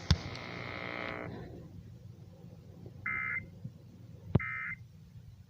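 Electronic device beeping: a click and a fading hum as the broadcast audio cuts off, then two short, even beeps about a second and a half apart, the second just after a sharp click.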